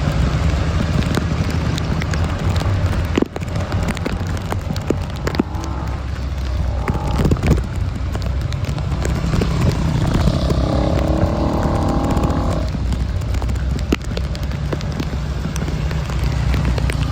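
Road traffic on a flooded city street: vehicle engines running with a steady low rumble, plus a higher-pitched sound lasting a couple of seconds about ten seconds in.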